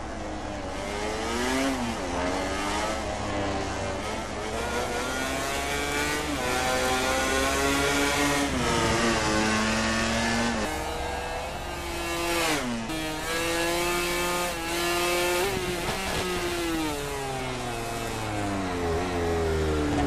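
1000 cc four-cylinder MotoGP race motorcycles at full racing speed. The engine pitch climbs and drops again and again as the bikes accelerate through the gears and brake for corners.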